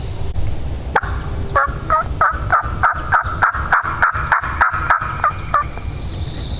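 Turkey yelping: a run of about fourteen short, evenly spaced notes, about three a second, starting about a second in and stopping shortly before the end.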